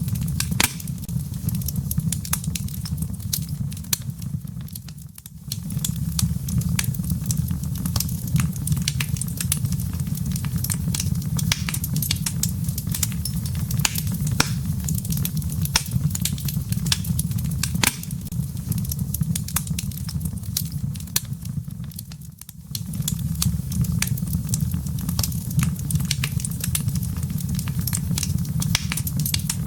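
Wood fire burning in a fireplace: a steady low rumble of flames with dense, sharp crackles and pops of burning firewood. The low rumble fades out briefly twice, once about five seconds in and once near two-thirds of the way through, while the crackling carries on.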